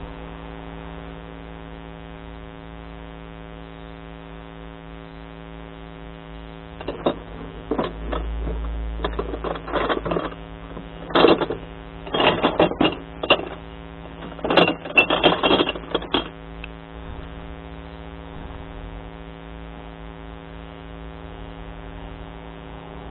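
Glass recycling truck's engine humming steadily. In the middle there are several seconds of irregular clattering crashes, like glass bottles tumbling into the truck.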